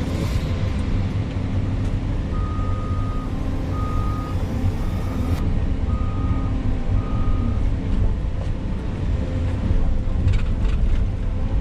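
Heavy diesel construction equipment running steadily, with a reversing alarm beeping five times from about two to eight seconds in. A few clanks follow near the end.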